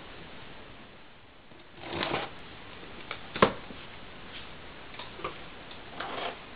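Packaging and plastic parts of a newly bought coffee maker being unpacked and handled: two short bursts of rustling and a handful of irregular sharp clicks and knocks, the loudest about halfway through.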